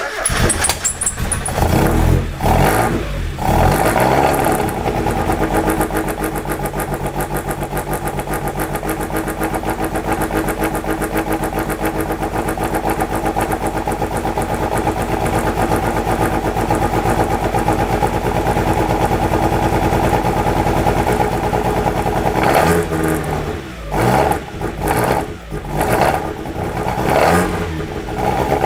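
1997 Mazda Miata's 1.8-litre four-cylinder on Maruha individual throttle bodies being started for the first time: it cranks, catches and revs up at once, then runs at a steady rough idle. Near the end the engine note dips and swells several times. The rough idle comes from a burnt-out throttle position sensor that makes the Freedom ECU read wide-open throttle.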